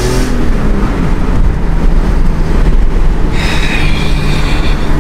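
BMW E46 M3's straight-six engine heard from inside the cabin during a hard run through the gears. The rising revs drop away with an upshift just after the start, then the engine holds a steady note.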